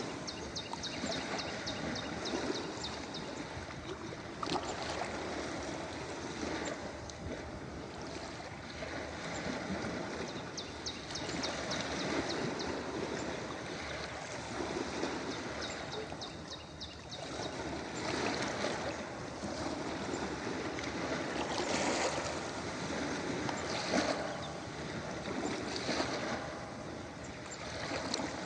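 Ocean waves washing onto a shore, a steady wash that swells and eases every few seconds, with bursts of fine crackling in places.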